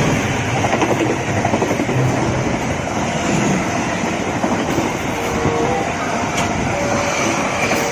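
Train running steadily past, with continuous rumbling noise from its wheels on the rails.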